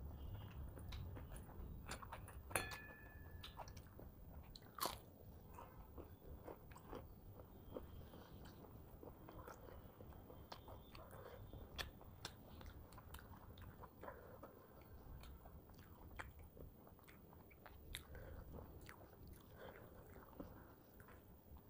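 Faint, close-miked chewing and mouth sounds of a person eating by hand, with soft crunches and scattered short clicks, the two sharpest about two and a half and five seconds in.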